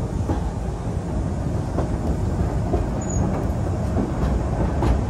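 Passenger train running along the track: a steady low rumble and rolling noise with scattered clicks and rattles.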